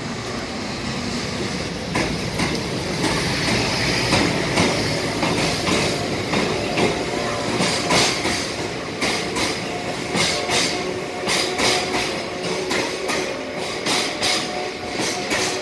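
JR Freight container train, hauled by an EF510 electric locomotive, arriving and rolling past: a steady rumble of wagon wheels grows louder about two seconds in, and from about halfway the wheels clack over rail joints. A thin steady squeal also joins about halfway, as the train slows to stop.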